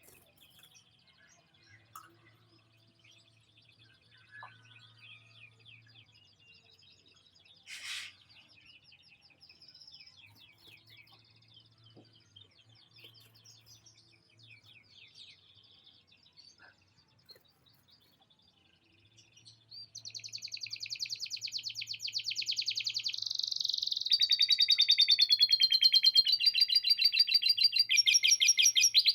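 Domestic canary singing: faint high twittering, then about two-thirds of the way in loud, rapid trills and rolls that switch to a new phrase every few seconds, a song filled with lovebird-like chatter phrases.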